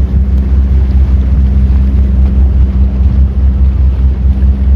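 The 300 hp Mercury engine of a Sea Ray 260 Sundeck boat running steadily under way, a constant low-pitched engine note.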